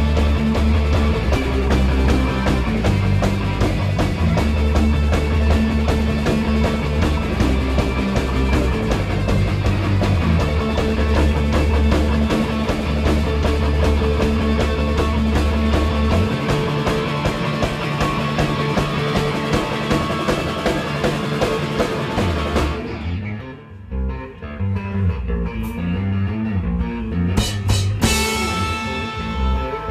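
A rock band playing loud, distorted electric guitar over bass and a drum kit. About 23 seconds in the full band sound drops away into a thinner passage, with a few sharp hits near the end.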